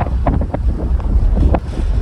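Wind buffeting the microphone: a heavy low rumble with irregular gusty rushes.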